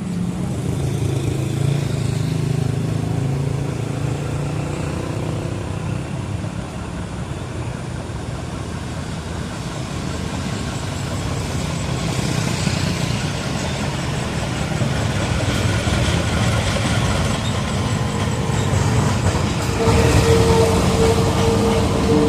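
Engine noise: a steady low drone that grows gradually louder, with a short steady tone about twenty seconds in.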